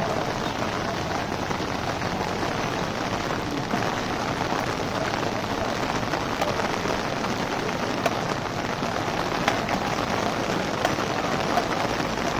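Heavy rain falling steadily, with drops pattering on an umbrella overhead and now and then a sharper drop tick.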